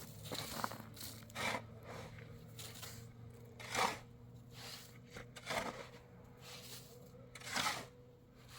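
Four short scraping, rustling strokes about two seconds apart, over a faint steady hum.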